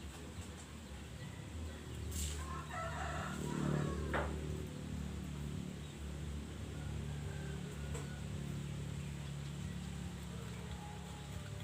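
A rooster crowing once, a little over two seconds in, over a steady low hum, with a sharp click just after the crow.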